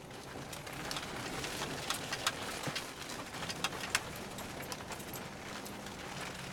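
Car driving on a snow-covered road: steady road noise and a faint low engine hum, with many irregular sharp clicks and ticks, thickest in the middle.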